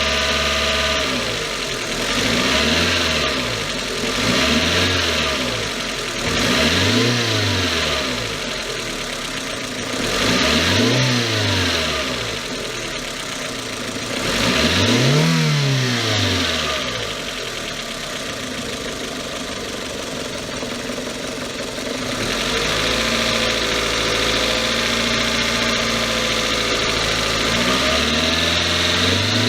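Toyota 4A-GE 20-valve four-cylinder engine being blipped about five times, each rev rising higher and lasting longer than the one before, and dropping back to idle between blips. In the last third it settles into a steady idle.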